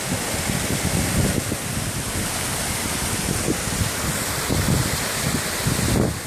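Heavy rain falling in a steady hiss, with gusts of wind buffeting the microphone in irregular low rumbles.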